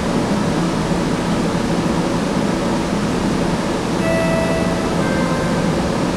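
Steady hiss and low rumble inside a Link light rail car, with a short two-step electronic chime about four seconds in.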